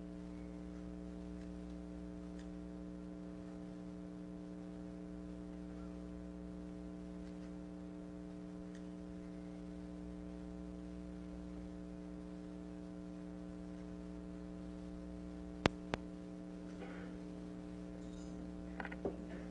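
Steady electrical hum on an old recording, with no speech. A single sharp click comes about sixteen seconds in, and faint rustling near the end.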